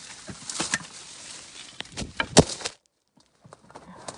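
Leaves and twigs rustling and snapping as someone pushes through dense brush, with a sharp crack a little past two seconds in. The sound cuts off suddenly near three seconds, then the rustling comes back fainter.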